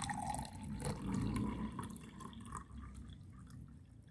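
Water trickling and dripping into a small drinking glass, tapering off toward the end.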